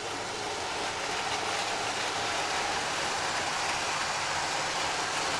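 Model railway train running on the track: a steady whirring rumble of the locomotive's motor and the wheels on the rails, growing a little louder about a second in.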